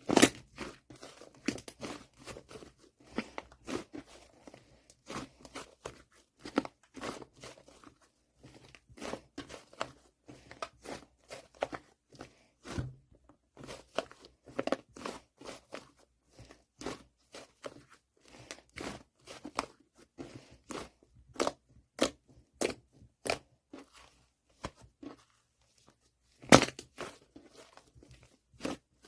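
Fluffy clay slime being squished and pressed by hand, making many short, irregular clicks and pops. A louder pop comes just after the start and another near the end.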